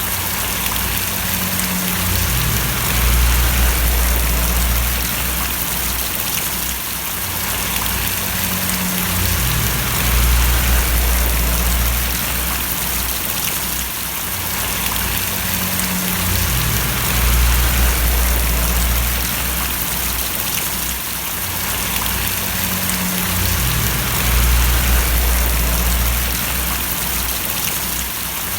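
Steady rain falling and splashing, an even hiss, with a low rumble that swells and fades about every seven seconds.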